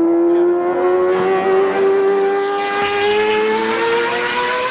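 IMSA GTP prototype race car engine at high revs, accelerating, its pitch climbing slowly and steadily with no gear change.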